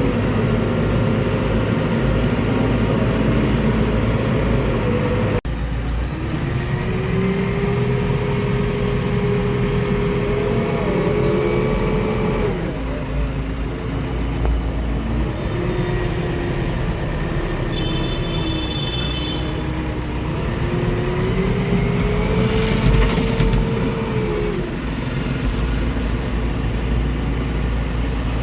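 JCB 3DX backhoe loader's diesel engine running under load, its pitch rising and falling in long swells as it revs. The sound changes abruptly about five seconds in.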